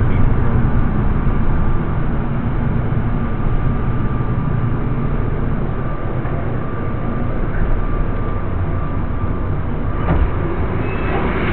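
Airport people-mover train cabin: a steady rumble from the running train with a faint steady whine. About ten seconds in comes a single knock as the doors open onto the platform.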